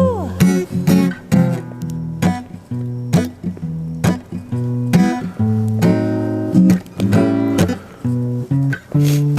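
Acoustic guitar strumming chords in a steady rhythm, an instrumental break in a live song.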